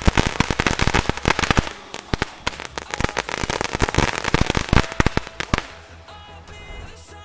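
A whole pack of knetterlint, small Category 1 firecracker strips, going off in a dense, rapid string of cracks that stops about five and a half seconds in.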